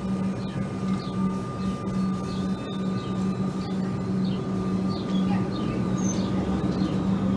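A train with a steady low hum and a faint higher whine, over a rushing noise. Short falling chirps come and go above it.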